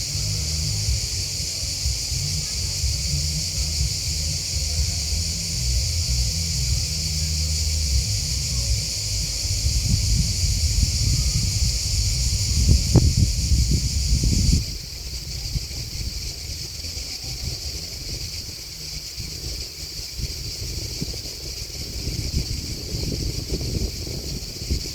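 Steady high-pitched chirring chorus of grasshoppers and crickets. Through the first half a low gusting rumble of wind on the microphone runs under it, with one thump near the middle. A little over halfway the rumble stops abruptly and the chorus drops to a lower level.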